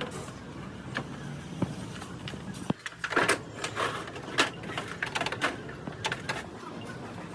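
Workshop noise: a steady low hum with occasional clicks, then, after a sudden cut about three seconds in, a quick run of sharp metallic knocks and clanks.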